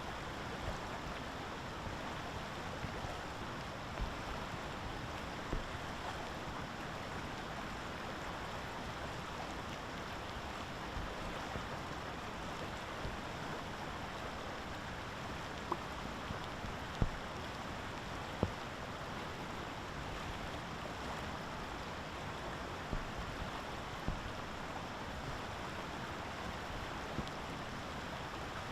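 Steady rushing outdoor noise with a few faint scattered clicks.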